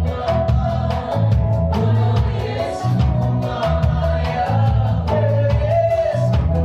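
A gospel worship band playing, with voices singing together over a strong bass and a steady, quick beat.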